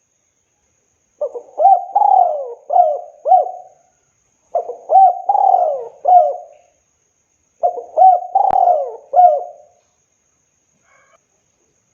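Spotted dove (tekukur) cooing: three phrases of about five coos each, separated by pauses of about a second, with a faint click during the third phrase.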